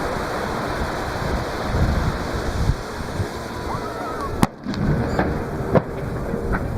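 Fireworks going off in a series of low booms with two sharp cracks, about four and a half and six seconds in, over the steady wash of surf breaking on the beach.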